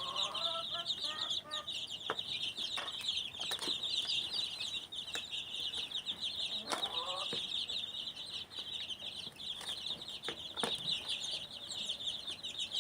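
Dense, continuous high-pitched bird chirping, with scattered clicks and two short lower calls, one about half a second in and one near seven seconds.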